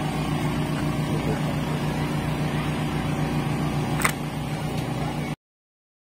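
A motor running steadily with a low, even hum, and a single sharp click about four seconds in; the sound cuts off abruptly shortly after.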